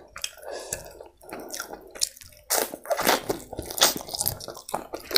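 A person chewing a mouthful of chicken biryani close to the microphone, soft and wet at first, then louder crunching bites from about two and a half seconds in.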